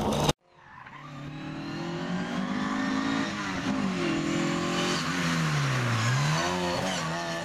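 Mk2 Ford Escort rally car's engine heard from the roadside as the car approaches and passes. Its note falls steadily, dips lowest about six seconds in, then climbs again as the car drives off.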